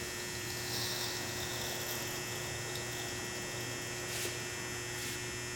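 Steady low hum with an even hiss; the engine is not firing.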